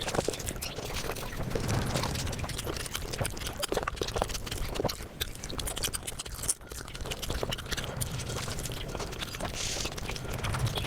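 Close-up eating sounds of a person chewing and smacking a rice-and-curry meal, played back at five times speed, so the wet mouth clicks and smacks come in a rapid, dense stream. There is a brief lull a little past the middle.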